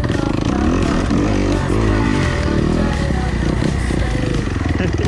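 Dirt bike engine revving up and down while riding, its pitch rising and falling several times in the first half before settling.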